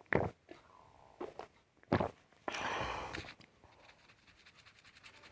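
Close-up eating sounds: a few short sharp mouth clicks or smacks, then a louder, rougher crunching noise lasting under a second about two and a half seconds in.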